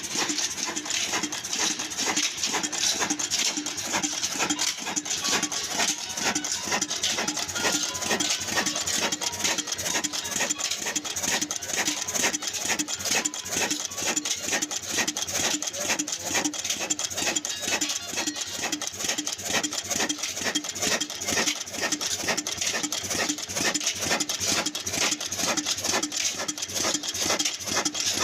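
Old black desi diesel engine, a Ruston & Hornsby-type slow-speed single-cylinder stationary engine, running with a steady, even, rhythmic knock and clatter. The sound cuts in suddenly at the start.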